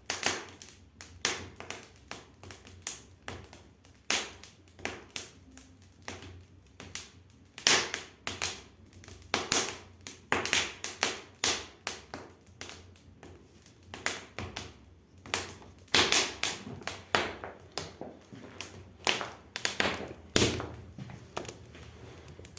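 Damp pine firewood burning in a brick fireplace, crackling with irregular sharp pops several times a second. The popping comes from the wood being pine, and the wood is damp and slow to catch.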